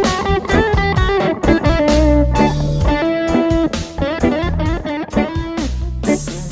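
Electric guitar with two ceramic humbuckers played through a Marshall Jackhammer distortion pedal: distorted low chugging with held, bent single notes and vibrato over it.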